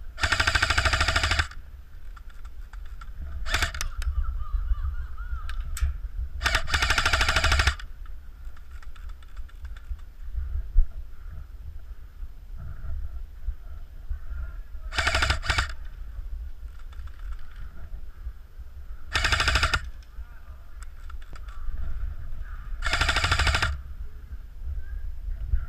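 Airsoft electric gun firing full-auto bursts: five rapid rattling strings of shots, each about a second long, with the gearbox motor whining through each burst. A few single shots fall in between, over low wind rumble on the microphone.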